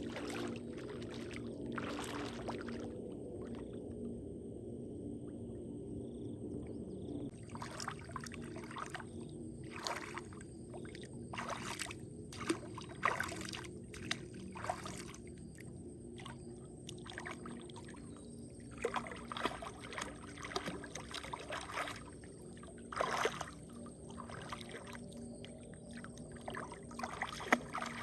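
Water splashing and sloshing in irregular bursts over a steady low background hum.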